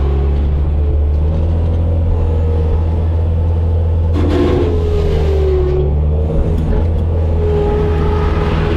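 Bobcat skid steer's diesel engine running steadily under work, with a whine that wavers in pitch above the drone. About four seconds in there is a brief rattling burst.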